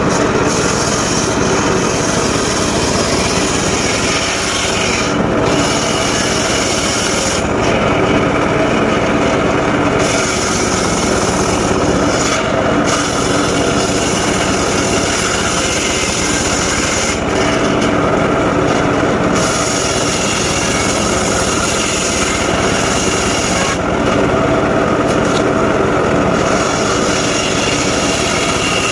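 Engine-driven mobile circular sawmill running steadily while its blade cuts through wood. The high cutting hiss drops away several times for a second or a few seconds between cuts.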